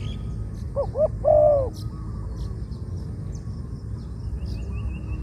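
A dove coos about a second in: two short notes followed by a longer, falling note. Small birds chirp faintly in the background.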